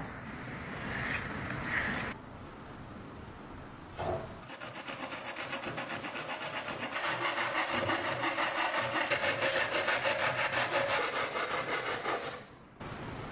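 Rhythmic back-and-forth rasping strokes, about four a second, like a hand tool worked against wood. They start about four seconds in and stop abruptly shortly before the end.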